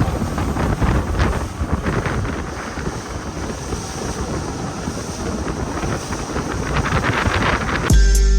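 Wind buffeting the microphone over the low rumble of a boat at sea. Music cuts in near the end.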